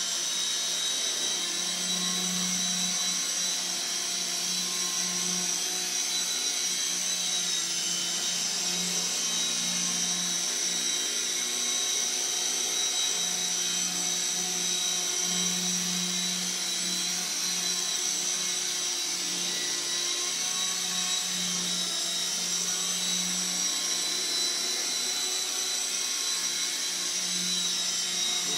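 CB180Q electric radio-controlled helicopter hovering: a steady high-pitched motor whine over a low rotor hum that swells and fades unevenly.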